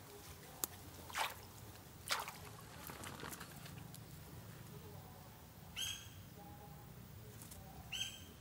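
A bird gives two short, clear calls about two seconds apart near the end. Earlier there is a sharp click and two brief swishing noises from someone moving at the grassy water's edge, over a faint low background hum.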